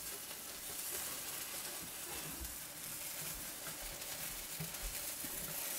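Egg-free omelet batter sizzling steadily as it fries in a non-stick frying pan.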